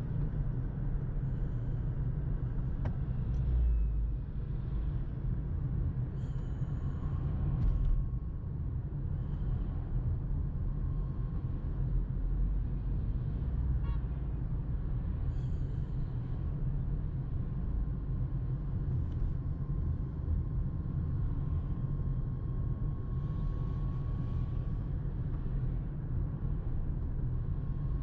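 Steady low rumble of a car, with no clear changes in speed or pitch.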